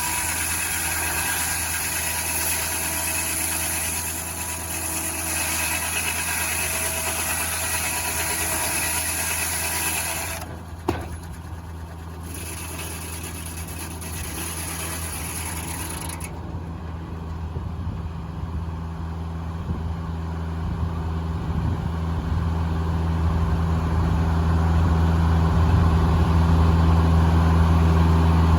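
The engine powering a Foley Belsaw circular sawmill running steadily with a low hum. A high hiss stops about ten seconds in, comes back briefly and ends about sixteen seconds in. There is a single sharp click about eleven seconds in, and the engine grows louder toward the end.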